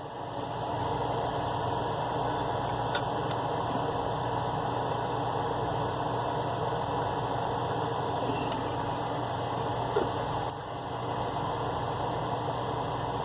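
Small DC motor of a mini metal lathe spinning up over the first second, then running at a steady speed with an even hum. The hum dips briefly about ten seconds in.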